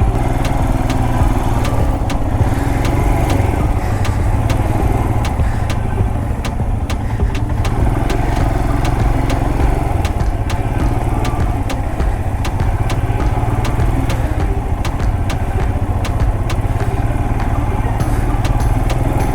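Motorcycle engine running steadily while the bike is ridden, under a heavy low wind rumble on the microphone, with frequent sharp clicks throughout.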